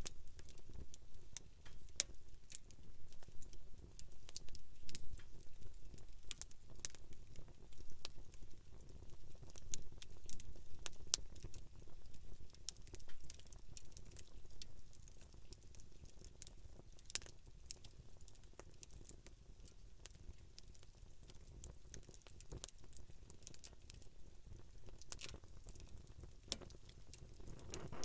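Wood campfire burning, with irregular sharp pops and crackles over a low rumble. The crackling is busier in the first half and thins out in the second.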